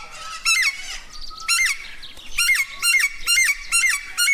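Parrots squawking: a run of about seven short, high-pitched calls, each rising and falling in pitch, coming faster in the second half.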